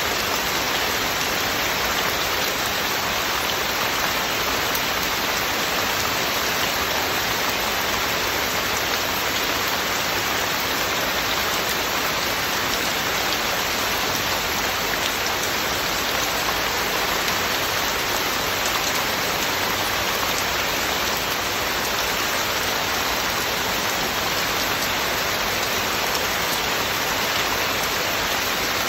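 Steady heavy rain falling, a dense even patter of drops on surfaces with no thunder or music.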